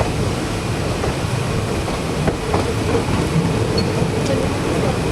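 Passenger train running along the track: a steady rumble with sharp wheel clicks over the rail joints every second or so.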